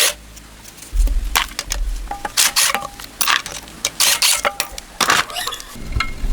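Hand work on metal engine parts: a string of short, irregular scraping strokes with a few brief metallic clinks.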